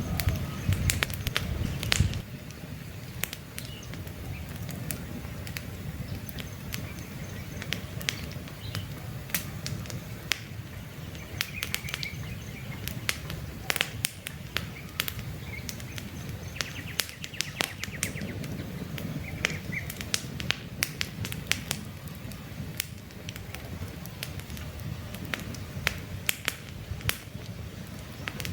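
Wood campfire crackling, with frequent sharp pops over a low steady rumble of burning; birds chirp now and then in the background.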